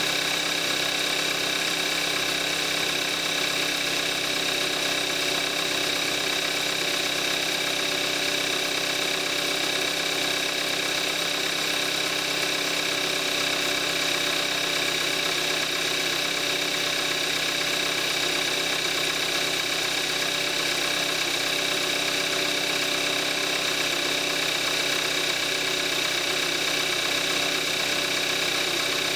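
2014 Kia Forte5's 2.0 GDI gasoline direct-injection four-cylinder engine idling steadily at about 41,000 miles, running Amsoil 5W-30.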